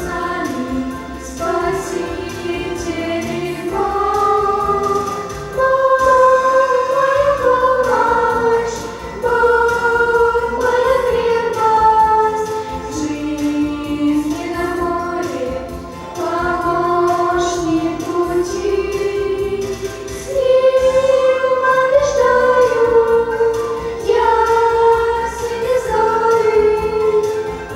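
A choir of teenagers singing a song together, several voices holding long notes that move from phrase to phrase.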